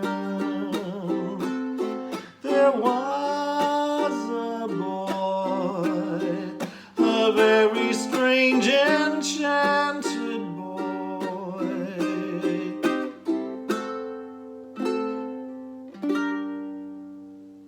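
Ukulele playing chords under a voice singing slow held notes with vibrato. Near the end a last chord is struck and left to ring and fade out.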